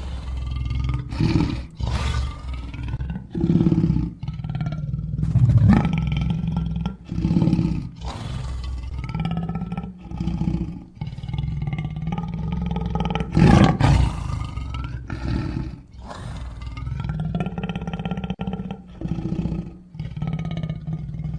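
Big-cat sound effect standing in for a sabre-toothed cat (Smilodon): a rapid series of growls and roars, one after another with wavering pitch, the loudest roar about two-thirds of the way through.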